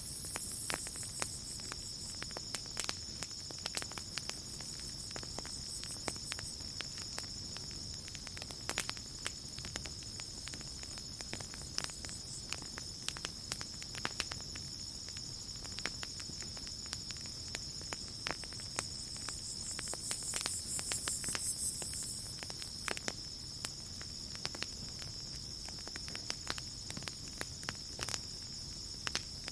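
Campfire crackling with irregular sharp pops over a steady high trill of crickets. A second, higher insect buzz swells for about two seconds roughly twenty seconds in.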